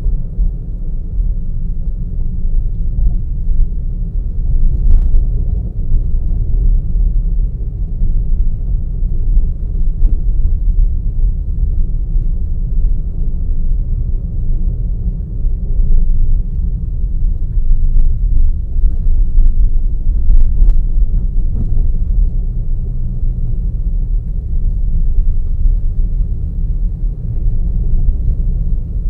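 A moving car's steady low road rumble of engine and tyres, with a few faint ticks scattered through it.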